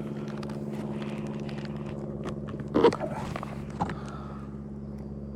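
Steady hum of honeybees from an open hive, with small scraping and clicking sounds of frames being handled. There is a sharper knock about three seconds in and a lighter one a second later.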